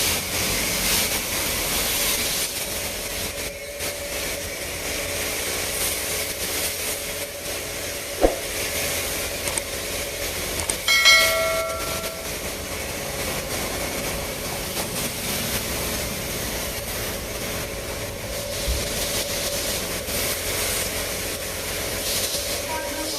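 Pressure-washer spray at a car wash: a steady hiss of water with the machine's hum under it. About eleven seconds in there is a short pitched tone.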